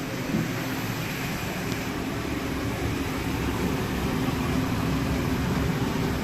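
Hood-type commercial dishwasher running with a steady mechanical hum, growing slightly louder a few seconds in.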